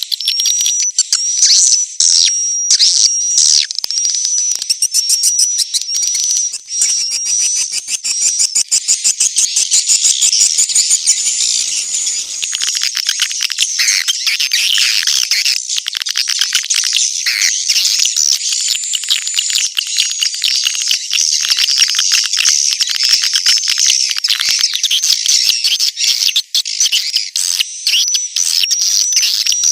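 Edible-nest swiftlet calls: a dense, continuous high-pitched twittering of rapid chirps and ticks. This is swiftlet-farming lure sound, played at a swiftlet house to attract the birds to roost and nest.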